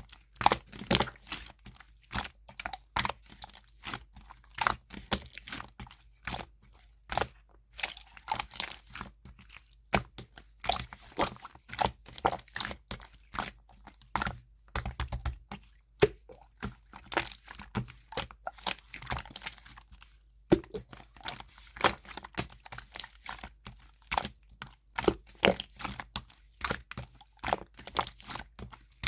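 Clear slime being squished and pressed, giving a dense run of sharp, irregular clicks and pops.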